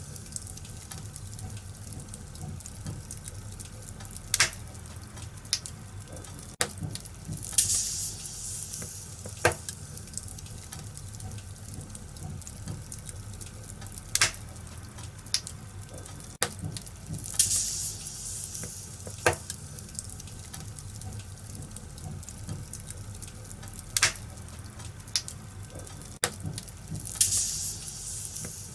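Wood fire crackling in a fireplace: a steady low rumble of the flames with sharp pops every few seconds, and brief bursts of high hissing about three times.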